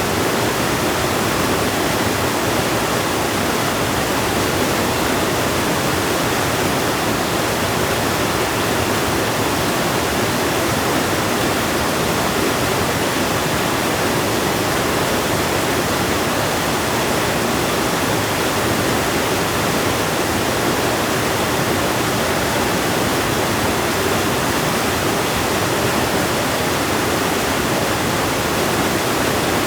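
River water rushing in a steady, unbroken torrent.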